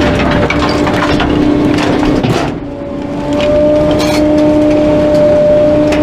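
Garbage truck's hydraulic compactor running with the engine held at raised revs, a steady whine that breaks off briefly a little over two seconds in and then picks up again. Over it come repeated cracks and knocks of bulky items breaking as they are crushed.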